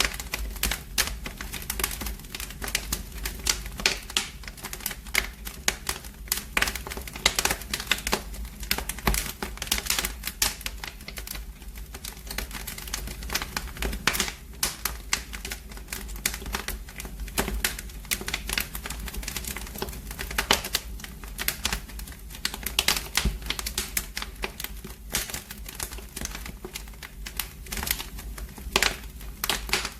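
Wood fire burning in a fireplace, crackling with a constant run of irregular sharp pops and snaps over a low steady rumble.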